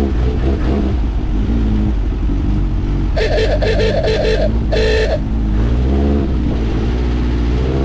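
Dune buggy's air-cooled 1600cc Volkswagen engine running under throttle, its pitch rising and falling. About three seconds in, a louder rapid pulsing sound breaks in for about two seconds.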